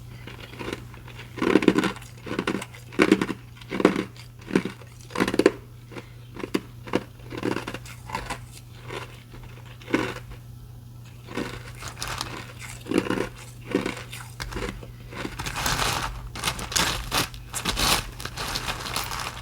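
Ice being chewed close to the microphone: crisp crunches one after another at uneven spacing, coming thicker and faster in the last few seconds.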